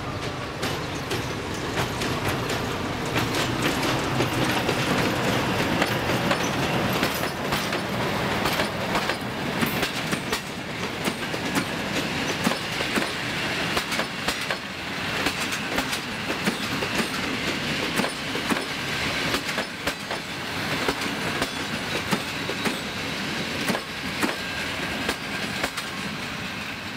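Passenger train hauled by a diesel locomotive rolling slowly past, its wheels clattering over the rail joints with many sharp clicks. A faint high squeal rises near the middle as the double-deck coaches go by. The sound eases off toward the end as the last coaches pass.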